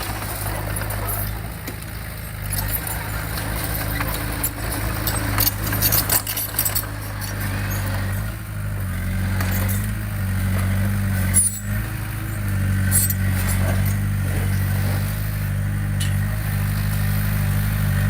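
Diesel engine of heavy earthmoving equipment running steadily, its pitch shifting slightly a couple of times as the load changes, with occasional sharp metallic clanks.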